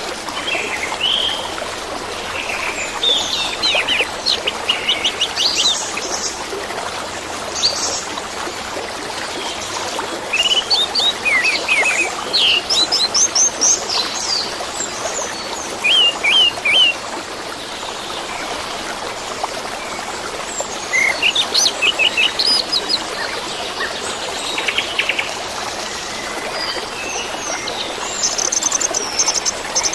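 Orange-headed thrush song in bouts of quick, varied chirps and whistles every few seconds, over a steady rush of flowing water.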